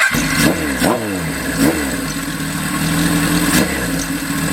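Kawasaki Z1 inline-four firing up through an early Tokyo Tekkan steel-pipe exhaust. It catches at once and is blipped three times in quick succession, then settles to a steady idle with one more short rev near the end.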